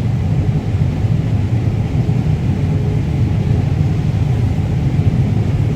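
Combine harvester running steadily while harvesting corn: a constant low rumble of engine and threshing machinery.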